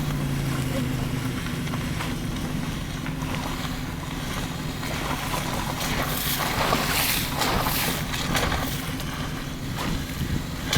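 A car's engine hum dies away about a second in, leaving a steady rushing, rumbling noise with louder hissing gusts between about six and nine seconds in.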